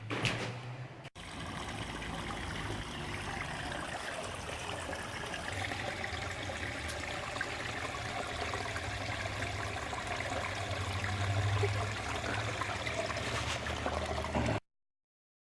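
Steady, even rushing noise, like running water, with a faint low hum under it; it cuts off abruptly near the end.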